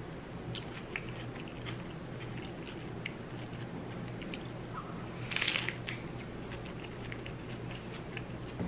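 Chewing and crunching on a crispy fried tortilla topped with vegetables, soft scattered crunches with one louder crunch about five and a half seconds in.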